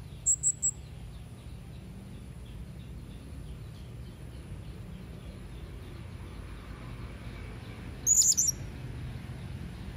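Blue-crowned hanging parrot (serindit) calling: three short, shrill high-pitched notes right at the start, then a quick cluster of notes about eight seconds in.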